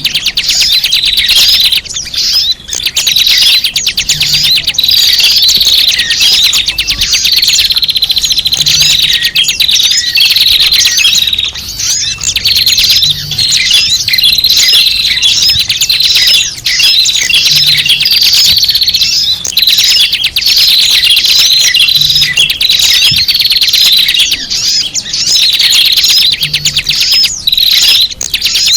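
Dense, loud chattering and chirping of many small birds: a bird-lure (pikat) recording used to draw in small birds. The same stretch of calls repeats about every four and a half seconds, as a loop.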